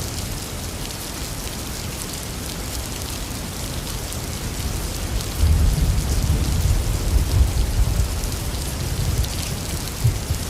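Heavy rain falling steadily, with thunder rumbling low from about halfway through.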